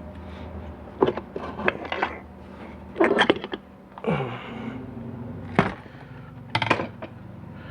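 Metal transmission parts being handled: a string of sharp clinks and knocks, with a short scraping sound about four seconds in, over a steady low hum.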